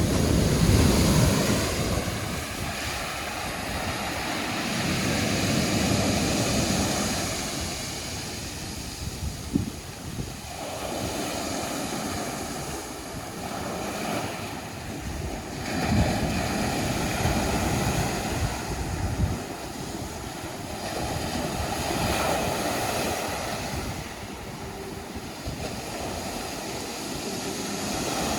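Small sea waves washing in and drawing back in repeated swells, with wind buffeting the microphone.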